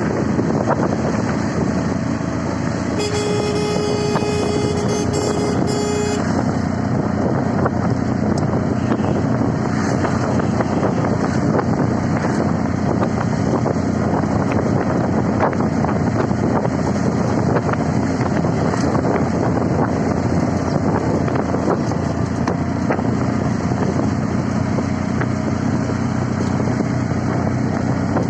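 CNG auto-rickshaw ride: a steady, loud din of engine and road noise, with a vehicle horn sounding one long blast of about three seconds a few seconds in.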